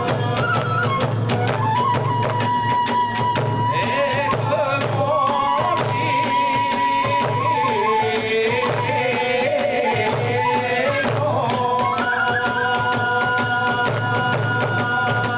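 Kagura festival music: a bamboo flute playing a held, stepping melody over steady beats of drum and small hand cymbals.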